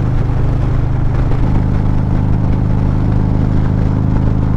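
Harley-Davidson Street Glide CVO's V-twin engine running steadily at road speed through Krome Werks Aggressor headers and slip-on mufflers, with wind and road noise over it.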